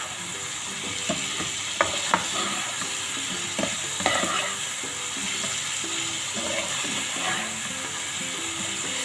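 Chicken pieces sizzling as they fry in a non-stick pan, with the scraping and sharp clicks of a spatula stirring and turning them against the pan.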